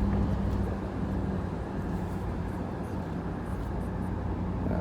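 Mercedes-Benz R129 500SL's V8 running at cruising revs through a muffler-delete exhaust, with road and wind noise, heard with the top down. The low exhaust drone drops in level just under a second in, then runs steady.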